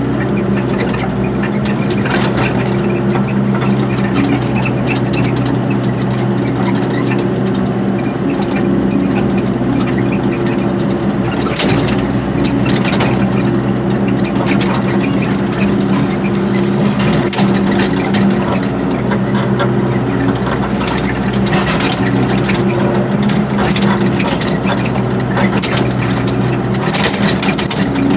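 Excavator's diesel engine running steadily, with scattered sharp knocks and clanks over it.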